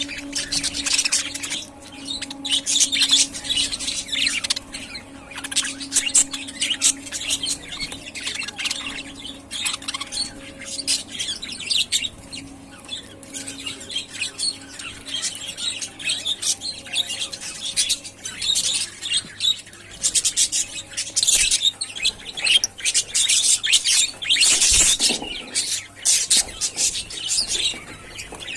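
A flock of budgerigars chattering and chirping continuously in rapid, high warbles, swelling and easing off in waves, over a faint steady hum. There is a brief knock near the end.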